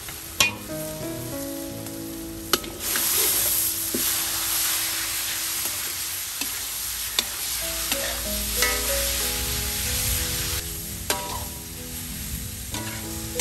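Pork and pork liver frying in a hot wok with garlic, sizzling as a metal spatula stirs them, with sharp clinks of the spatula against the wok every second or two. The sizzle swells about three seconds in, as the meat goes in, and eases near the end, over soft background music.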